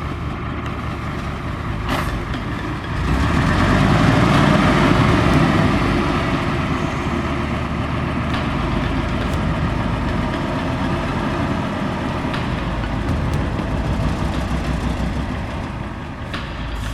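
Heavy diesel engine running steadily, growing louder about three seconds in, then easing back to a steady run. A single click about two seconds in.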